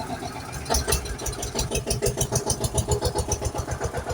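A motor vehicle's engine, as a cartoon sound effect, catching with a louder burst about a second in and then running with a rapid, even chugging.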